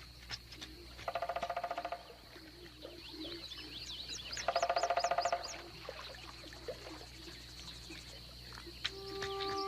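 Swamp wildlife: bird chirps over a steady high insect buzz, with two loud, rapid pulsing calls about a second long each.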